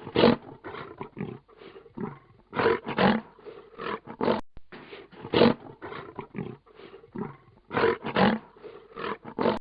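Lion roaring: a series of loud roars with shorter, quieter grunts between them.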